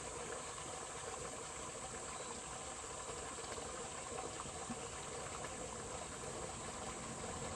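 Water flowing in a stream, a steady, even rush.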